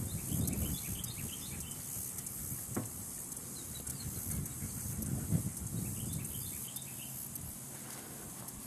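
A songbird singing three runs of quick, rising chirps, over a steady high insect hiss and a low rumble of wind on the microphone.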